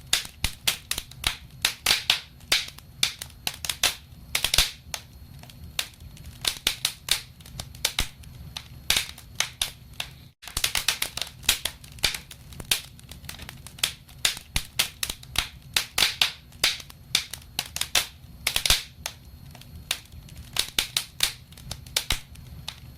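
Wood fire in a fireplace crackling, with frequent sharp pops and snaps over a steady low rumble of the flames. The sound cuts out for an instant about ten seconds in.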